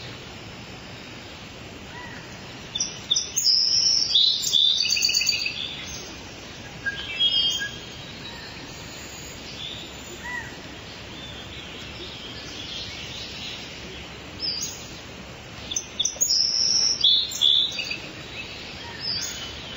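Small songbirds calling and chirping in bursts of rapid high-pitched notes, about three seconds in, again near seven seconds and between sixteen and eighteen seconds, over a steady outdoor background hiss.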